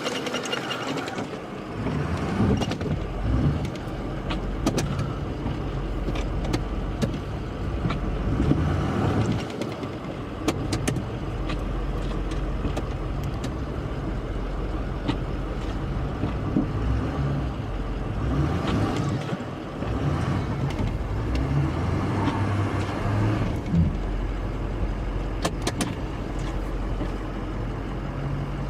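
Engine of a snow-plowing vehicle running steadily at a low, even hum, with occasional knocks and clicks of metal parts.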